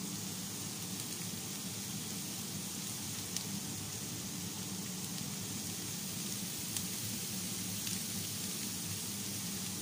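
Boiled beef chunks dry-frying in coconut oil in a frying pan, a steady sizzle with a few small pops, as the last of the stock cooks off and the meat darkens. A low steady hum runs underneath.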